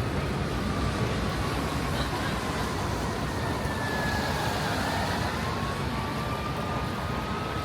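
Steady street traffic noise with a distant siren wailing faintly, its pitch slowly falling and then rising.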